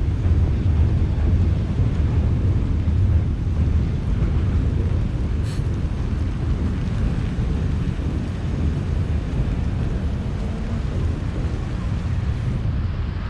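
Steady low rumble of wind buffeting the camera's microphone, with city traffic beneath it.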